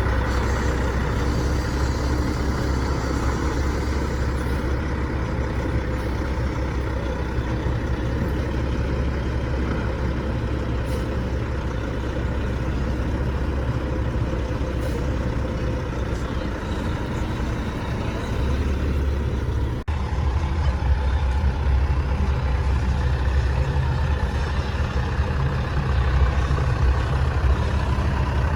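Heavy diesel truck engine running steadily with a deep low rumble. About twenty seconds in there is a brief click, and the rumble is louder after it.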